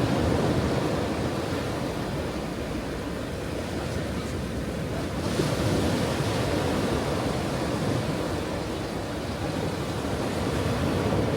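Ocean waves washing onto a shore: a continuous rush of surf that swells and eases, with a brighter surge about five seconds in.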